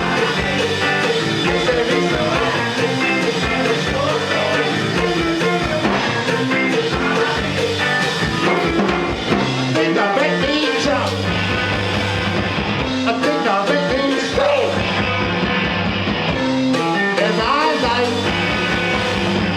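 A rock band playing live, with amplified electric guitar, bass and drums, in an instrumental stretch of a song.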